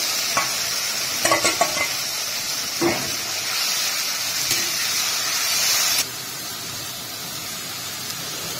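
Spice paste frying and sizzling in hot oil in a kadai, with a spatula stirring and scraping against the pan in a few sharp strokes. The sizzle drops suddenly to a quieter hiss about six seconds in.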